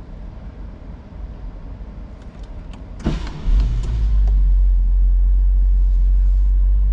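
1976 Mercedes-Benz 450 SL's V8 starting: it catches about three seconds in with a sudden rise in level, then settles into a steady, deep idle heard from the driver's seat.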